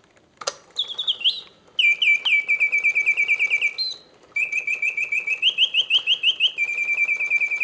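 Vintage 1969 Reuge double singing bird cage whistling its mechanical birdsong, driven by wood and leather bellows: fast trills of repeated chirping notes, about six a second, broken by short rising glides and a brief pause about four seconds in. A single click about half a second in, as it starts.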